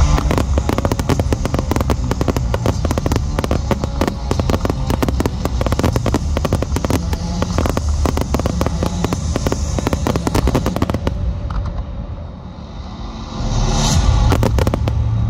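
Aerial firework shells going off in a dense barrage: rapid bangs and crackle over a low rumble, easing off about twelve seconds in, then another loud volley near the end.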